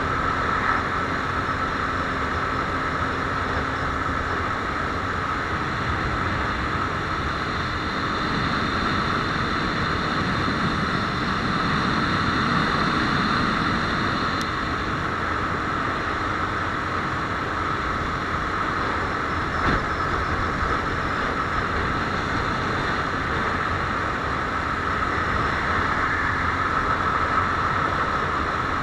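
Viper R2 motorcycle running steadily on the move, its engine note blended with a constant rush of noise.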